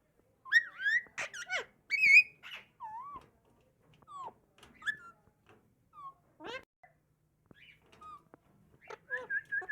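Alexandrine parakeet vocalizing: a string of short squawks, chatter and whistled gliding notes with brief pauses between them, the loudest cluster about two seconds in.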